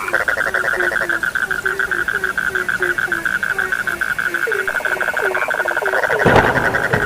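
Frogs calling: a rapid pulsing trill starts at once and runs on over a regular series of short, low, upward-hooked croaks, about two or three a second. A louder, deeper burst comes about six seconds in.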